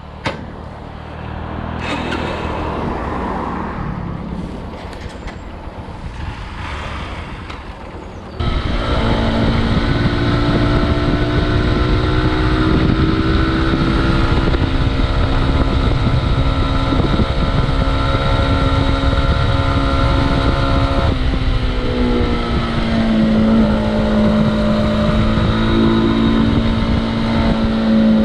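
Motorcycle engine running while riding, with wind noise. It turns suddenly much louder about a third of the way in, then runs steady. Its pitch drops about three quarters of the way through and settles at a lower steady note.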